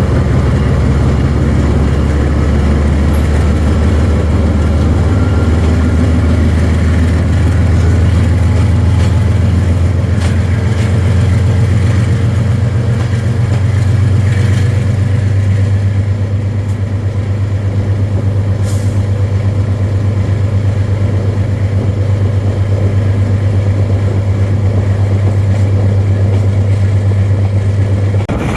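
Diesel-electric locomotive engine running with a loud, steady, deep drone, its pitch stepping up slightly about twelve seconds in.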